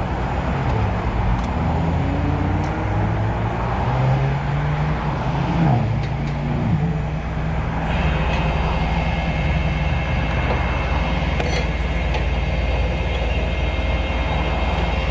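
Tow truck engine running steadily, its pitch briefly rising and falling near the middle. A steady high whine joins in about halfway through.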